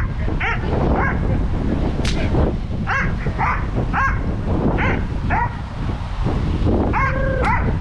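Dobermann barking repeatedly, short barks about two a second, with a couple of longer, drawn-out calls near the end. Gusty wind buffets the microphone throughout.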